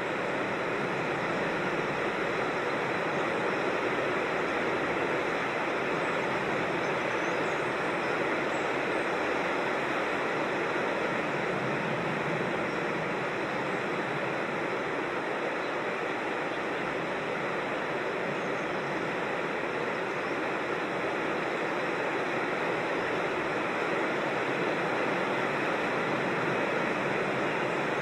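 Steady rushing of a creek and small waterfall, an even wash of water noise with no breaks.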